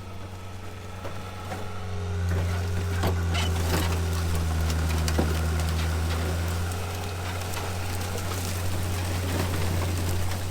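Steady low hum of a pulling vehicle's engine or motor, with scattered sharp cracks and snaps of wood and brush giving way as the car is dragged.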